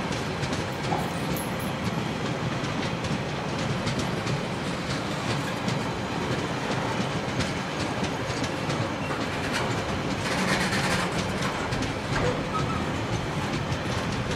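TasRail freight train's container wagons rolling past at speed: a steady rumble of steel wheels on rail, with frequent wheel clicks.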